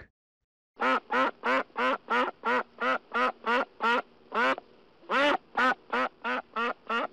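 A duck quacking in a long, quick series of about seventeen quacks, roughly three a second.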